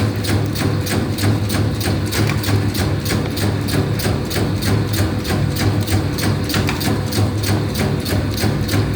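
Electric meatball-forming machine running at speed. Its motor hums steadily under an even, rapid clacking of about three to four strokes a second.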